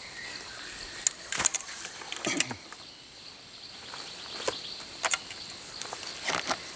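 Insects droning steadily at a high pitch, with a handful of short sharp crackles and rustles, like leaves or twigs being stepped on or brushed, spread across a few seconds.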